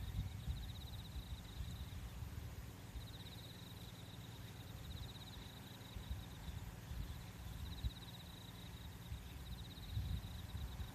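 Insects trilling in short high-pitched bursts of rapid pulses, one burst every two seconds or so, over a low steady rumble like wind.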